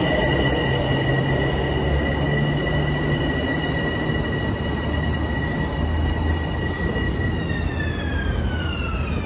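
Passing train sounding its horn: a long held multi-note chord over the rumble of the train, falling in pitch near the end as the train goes by.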